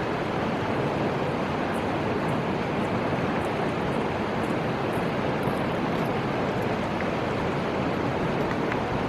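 Steady rushing of the Fuji River's flowing water, an even noise that holds at one level throughout.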